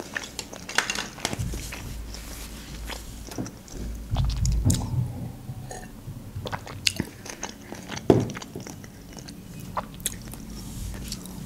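Close-miked chewing of sushi rolls: soft wet mouth clicks and smacks. A few swallows from a glass of drink come about halfway through.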